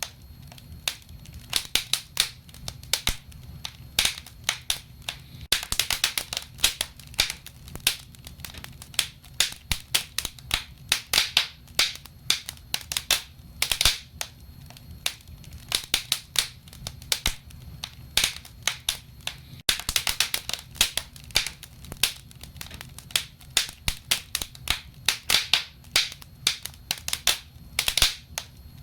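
Wood fire in a fireplace crackling: sharp irregular pops and snaps, several a second, over a low steady rumble of the flames.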